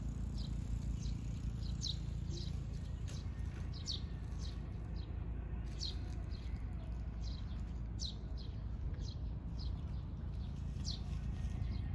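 Small bird calling: short high chirps, each falling in pitch, repeated irregularly about once or twice a second, over a steady low rumble.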